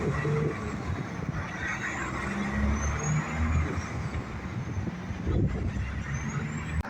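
Road traffic going by: trucks and cars passing with engine rumble and tyre noise.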